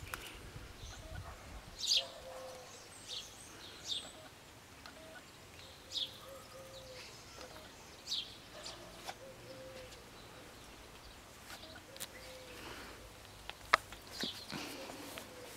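Garden birds chirping, with short high calls every second or two over a faint outdoor background. A single sharp click comes near the end.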